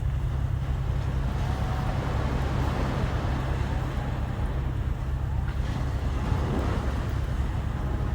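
Sea waves washing ashore with wind buffeting the microphone, a steady low rumble under a constant rush of surf.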